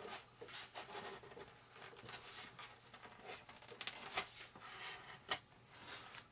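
Faint scratching and light ticks of a wooden skewer spreading epoxy on model airplane parts, in short irregular strokes.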